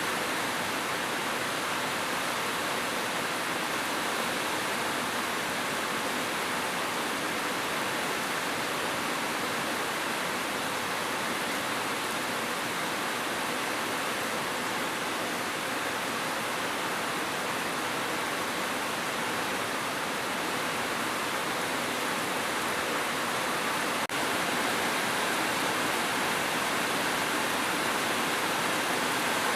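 Steady heavy rainfall, an even continuous hiss of falling rain. About three quarters of the way through it drops out for an instant and then carries on slightly louder.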